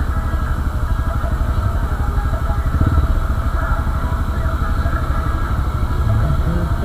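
Steady vehicle running noise: a continuous low engine and road rumble with no distinct events.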